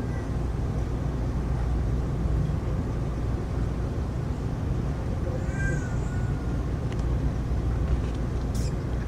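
Steady low rush of heavy rain through the night storm. About halfway through there is one short, high call that rises and falls, and near the end there are a couple of faint clicks.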